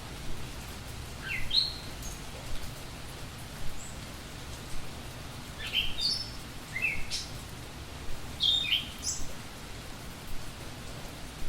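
Budgie chirping in short, quick rising notes, in four brief clusters, over a steady hiss.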